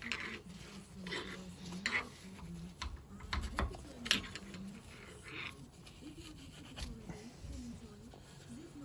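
Short, irregular scratchy rubbing strokes of wire wool being twisted into the pump's valve seats with a screwdriver to scour them clean.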